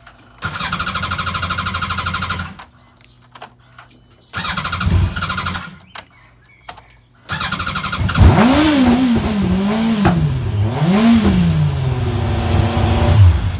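Yamaha R1 motorcycle's inline-four engine being cranked on the electric starter: two short cranks that do not keep it running, then a third after which the engine catches and is revved up and down several times. The engine starts only when it is revved and cuts out if the revs drop too low; the fault is tied to the Power Commander fuel unit.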